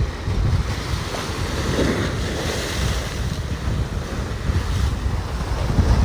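Rough sea waves breaking and surging in, with gusty wind buffeting the microphone.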